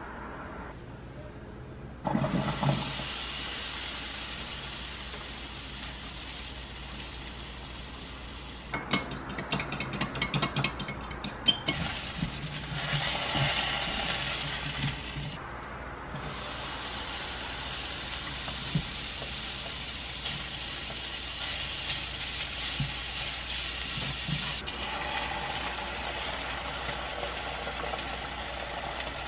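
Diced potatoes sizzling as they fry in a nonstick frying pan, stirred with a spatula. The sizzle starts suddenly about two seconds in and jumps at several cuts, with a spell of quick clattering scrapes in the middle.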